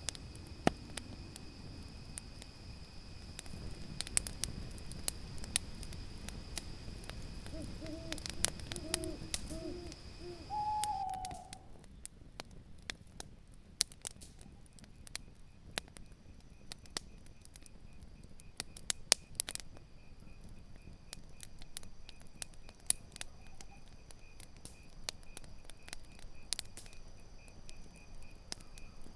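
Campfire crackling with scattered sharp pops, while an owl hoots a quick series of short notes about eight seconds in, ending on a higher note near eleven seconds. Crickets trill steadily in the background.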